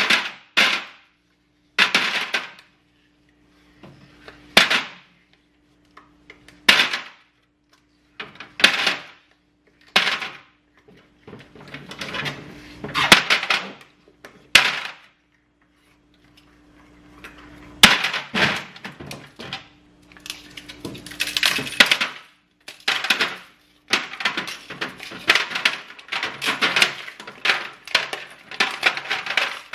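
Ice cubes clattering as they are knocked out of ice trays into an ice bucket: a run of short rattling bursts a second or two apart, coming thicker in the second half.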